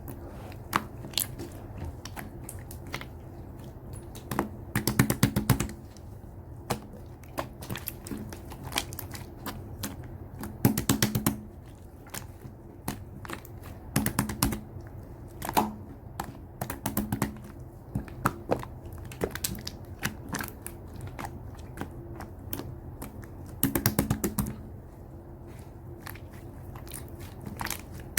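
Slime being squeezed and kneaded by hand, giving scattered sharp clicks and pops with several short bursts of rapid crackling as trapped air bubbles pop.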